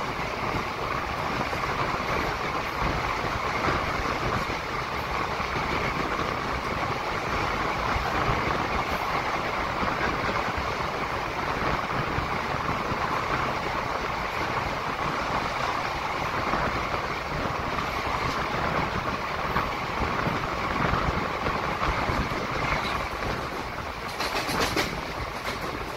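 Passenger train running at speed through a tunnel, heard at an open coach door: a steady rumble and rattle of wheels on rails. Near the end there is a brief burst of high-pitched screeching.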